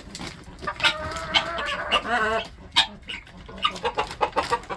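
Chickens clucking: a run of short, sharp clucks, with a longer wavering call about two seconds in.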